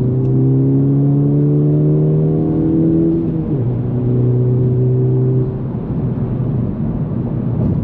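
Honda Civic Type R FL5's turbocharged 2.0-litre four-cylinder through an AWE Touring exhaust, accelerating: the revs climb, drop suddenly at a gear change about three and a half seconds in, pull again, then the throttle lifts about five and a half seconds in and the engine settles quieter.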